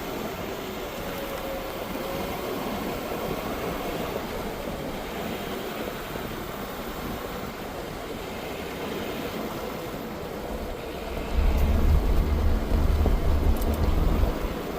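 Ford Super Duty pickup driving along a forest road: steady road and tyre noise, with a louder low rumble for about three seconds near the end.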